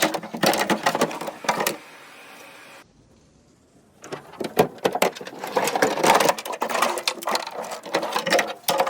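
Rapid clicking, rattling and knocking of tools on metal and plastic door parts as the fittings of a car door are worked on, stopping briefly about two to four seconds in.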